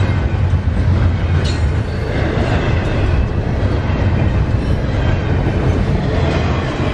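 Intermodal freight train cars rolling past: a loud, steady rumble of wheels on the rails, with a short high squeal about a second and a half in.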